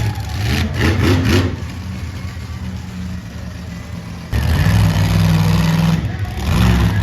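Big monster truck engines running at a low idle, with a few short sharp noises about a second in. About four seconds in, a louder engine comes in abruptly and keeps running steadily.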